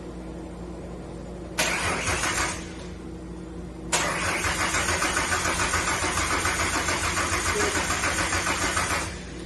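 Starter motor cranking the freshly installed remanufactured engine of a 2005 Ford Mustang without it firing: a short crank, then a longer one of about five seconds, with an even rhythm of about five pulses a second. The engine is being spun over with fuses pulled to build oil pressure before a real start.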